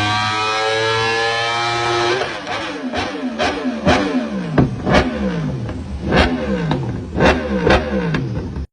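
1000cc motorcycle engine held at high revs with its pitch slowly rising, then blipped over and over: each blip gives a sharp crack and the revs fall away. The sound cuts off suddenly near the end.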